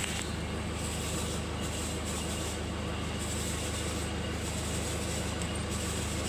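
Mazda BT-50's 3.0-litre turbo-diesel engine idling steadily.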